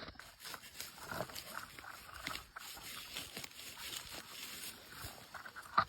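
Irregular rustling and crackling in dry leaf litter and undergrowth, as someone moves through the woods foraging for mushrooms.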